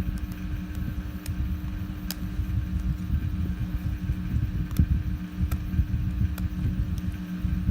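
A steady mechanical hum over a fluctuating low rumble, with a handful of sharp, isolated clicks as support pieces are snipped and broken off a plastic 3D print.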